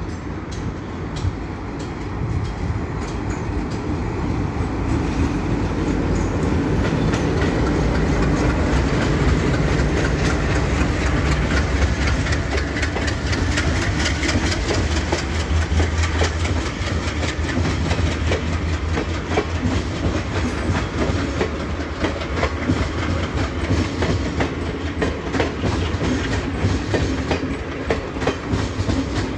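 Long passenger train headed by two locomotives passing close by on the adjacent track. It builds to a loud rumble over the first several seconds as it comes alongside, then the coaches keep up a steady clatter of wheels clicking over rail joints.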